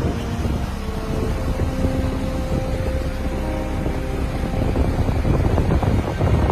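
A motor running steadily, a low rough rumble with wind buffeting the microphone.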